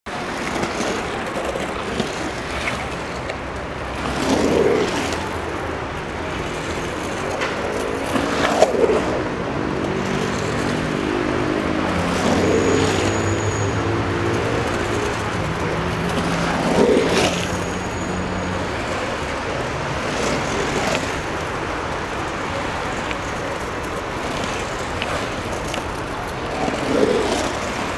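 Skateboard wheels rolling over a concrete bowl, the sound swelling and fading each time the skater carves past, about six passes, with a few sharp clacks of the board. A low steady hum runs under the middle stretch.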